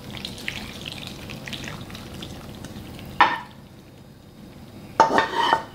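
Food frying in hot oil in a pan, sizzling with many small crackles. A utensil knocks against the pan about three seconds in, and a louder, ringing metal clatter comes near the end.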